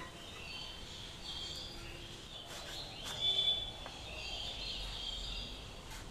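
Small birds chirping in the background, many short high calls, loudest a little after three seconds in, with a few faint clicks as an eggplant is trimmed against a boti blade.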